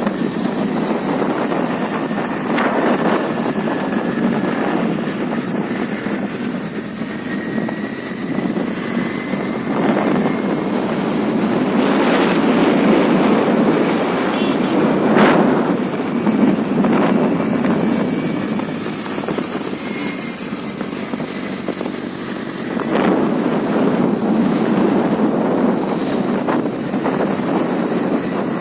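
Wind rushing over the microphone on a moving Honda Dio scooter, with its engine running underneath; the noise swells and eases several times.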